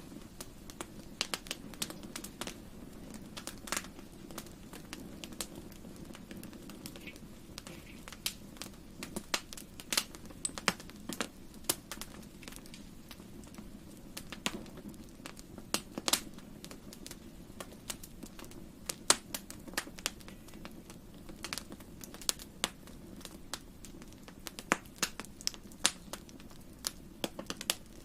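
Fireplace fire crackling, with irregular sharp pops and snaps over a steady low hum.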